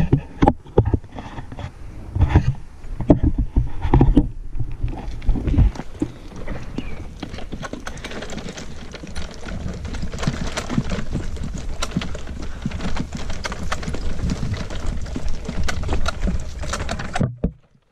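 Footsteps and handling knocks from a hand-held camera being carried while walking, with a steady rustle under many small clicks. It cuts off abruptly near the end.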